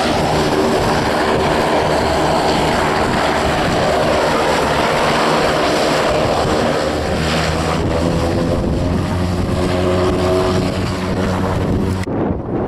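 Airliner engines running loud and close: a steady drone of several held tones under a rushing noise, which cuts off abruptly near the end.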